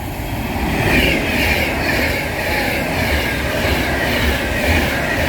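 Train running past close by: a steady rumble with wheels clattering and a high ringing squeal from the wheels on the rails that pulses and sinks a little in pitch.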